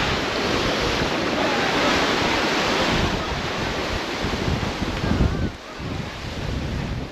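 Sea waves washing and splashing, with wind buffeting the microphone. The rush is loud and even for about five seconds, then drops away suddenly.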